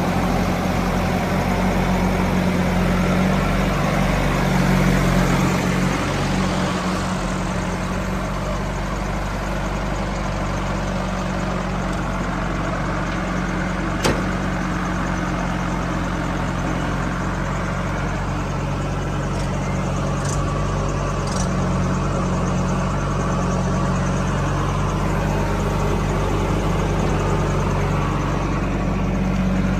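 Heavy machinery's diesel engine running steadily at low speed, with a single sharp click about halfway through.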